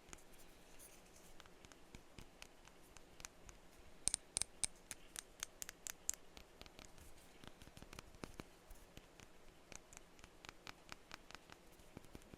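Tapping on perfume bottles: scattered light clicks, with a quick run of louder, ringing taps about four to six seconds in.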